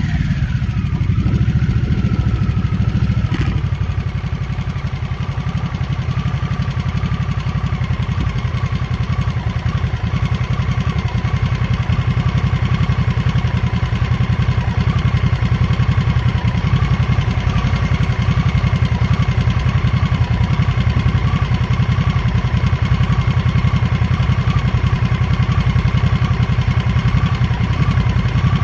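2023 Harley-Davidson Nightster's Revolution Max 975T V-twin running under way while cruising. Its pitch drops over the first second or so, then holds steady at an even speed.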